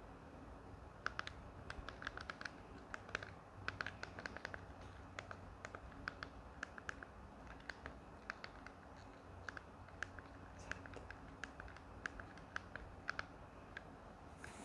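Slime being handled, giving faint, irregular small crisp clicks and pops, several a second at times.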